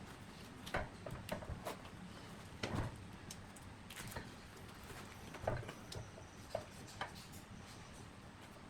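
Scattered light knocks and clicks at irregular intervals, like objects being handled and set down; the strongest come a little under 3 s in and again about halfway through.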